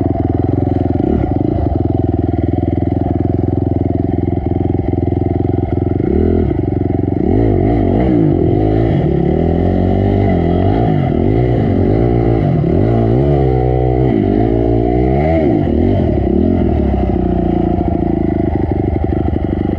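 Honda CRF250 single-cylinder four-stroke dirt bike engine running, at first fairly steady, then revved up and down again and again through the middle as the throttle is worked over rough ground, settling back to steadier running near the end.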